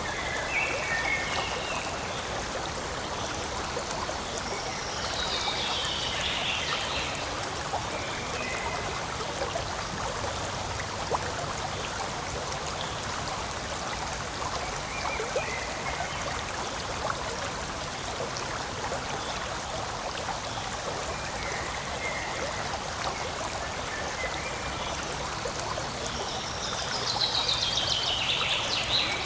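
A forest stream flowing steadily over stones, a continuous rushing and trickling. High, short chirping calls come through it now and then, with a longer falling series of chirps near the end.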